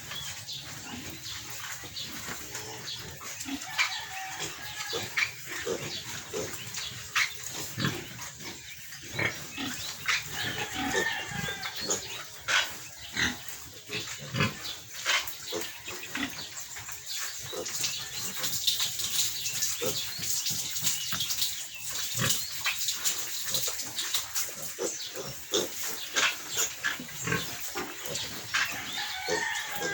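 Fourteen-day-old piglets squealing in many short, irregular cries, the distress calls of piglets being caught and held for castration.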